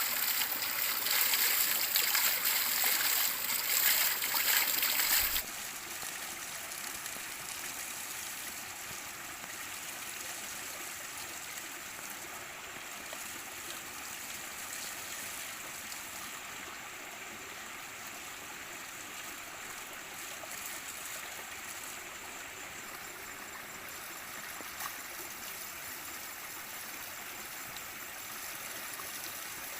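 Running water with a steady rushing sound, louder for the first five seconds, then dropping suddenly to a softer steady rush.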